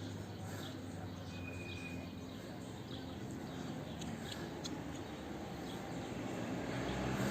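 Outdoor background noise with faint, short high chirps. A broad rush of noise swells near the end, like traffic approaching.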